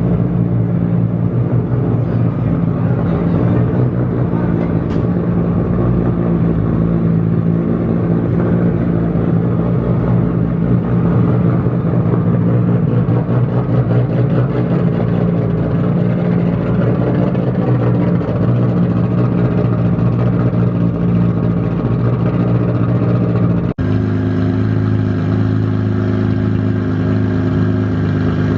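Car engine running at a steady cruise, a continuous low drone with little change in pitch. About 24 seconds in it switches abruptly to a different steady engine note.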